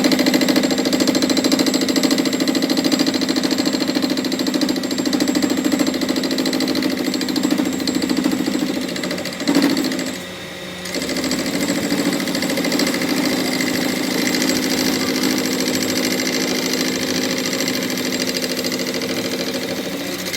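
A workshop machine running steadily with a fast, even pulsing hum, dipping briefly about ten seconds in and then resuming.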